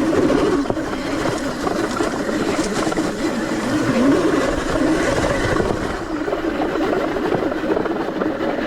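ETM RTR electric dirt bike being ridden on a trail: the motor's whine rises and falls in pitch with the throttle over steady wind and ground noise.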